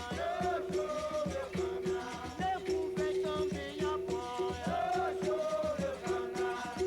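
Capoeira music: berimbau with percussion keeping a steady rhythm, and voices singing a capoeira song over it.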